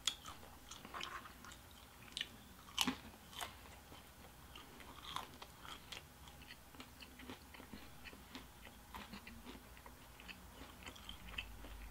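A person chewing pizza with the mouth closed: soft, scattered crunches and wet mouth clicks, with a couple of louder crisp bites about three seconds in.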